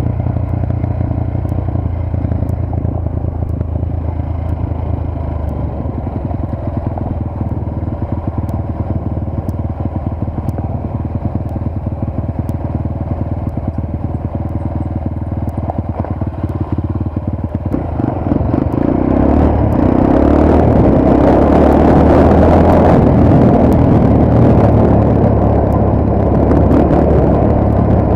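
Motorcycle engine running steadily under way, then growing louder with a rushing noise from about two-thirds of the way through as the bike picks up speed.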